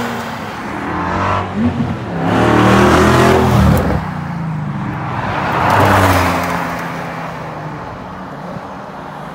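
Supercar engines accelerating past one after another, with two loud passes about two to four seconds in and about six seconds in; the engine sound then fades as the cars pull away.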